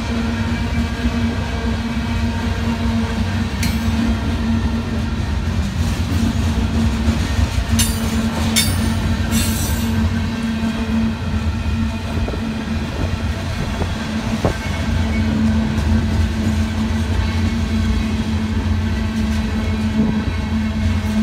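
Freight train of covered hopper cars rolling past close by: a steady low rumble of steel wheels on rail. A few brief high-pitched wheel squeals come about four seconds in and three more between eight and ten seconds in.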